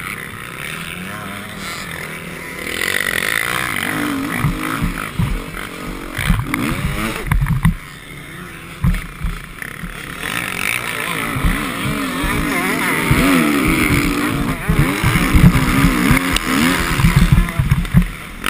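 Motocross bike engine revving up and down repeatedly as it is ridden round the track, with heavy low rumble and buffeting.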